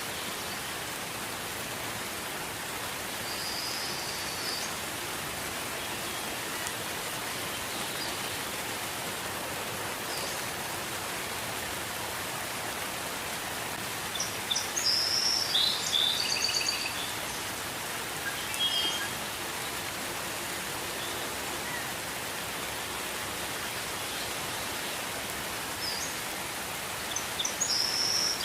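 Gentle rain falling steadily, with birds chirping over it: a short call about four seconds in, a busy run of chirps around the middle (the loudest sounds here), and more chirps near the end.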